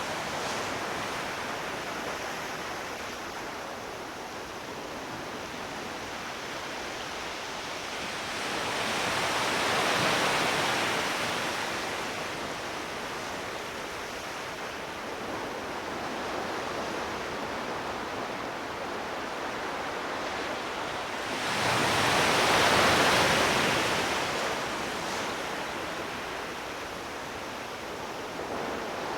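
Sea waves washing onto the shore over a steady hiss of surf, with two larger waves swelling up and falling away, one about ten seconds in and one just past twenty seconds.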